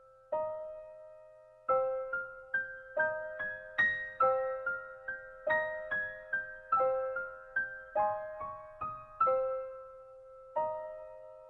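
Background music: a gentle piano or electric-piano melody, single notes struck and left to ring, with short pauses between phrases.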